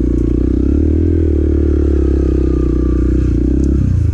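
Motorcycle engine running at low speed off-road, heard through a helmet-mounted microphone, its pitch fairly steady with small rises and falls, then dropping off near the end as the throttle closes.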